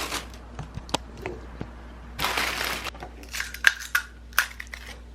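Handling noises: a burst of crinkling or rustling a little past two seconds in, with scattered sharp clicks and taps, several of them close together in the second half.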